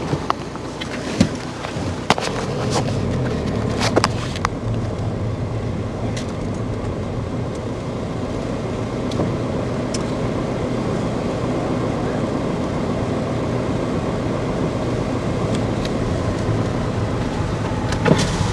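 Car cabin noise while driving: a steady low engine and road rumble. Several sharp clicks and knocks in the first few seconds, and another near the end.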